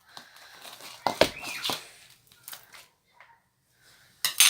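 Clear slime being mixed with wet instant snow powder by hand: sticky clicks, crackles and tearing sounds, with a sharper cluster of clicks near the end.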